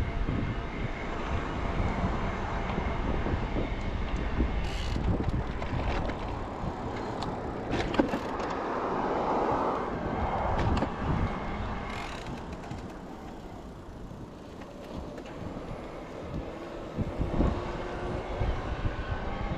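Riding noise from an e-bike on the move: wind on the microphone and tyres rolling on pavement, with a few sharp clicks along the way.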